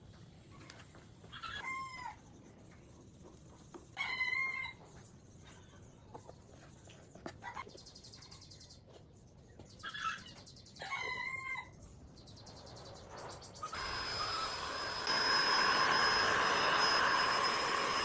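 A chicken calls four times in short pitched cries, two about two seconds apart early on and two close together later. Near the end a machine, likely a shop power tool, starts and runs loudly with a steady high whine over a rushing noise.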